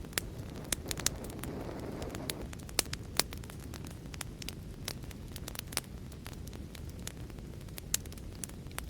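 Wood fire crackling: irregular sharp pops and snaps over a steady low rumble of burning, with a soft hiss swelling briefly about two seconds in and a few louder pops around three seconds and near the end.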